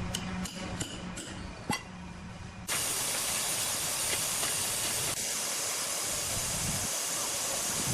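A few light clicks over a low hum, then a loud, steady hiss that starts suddenly about a third of the way in and holds.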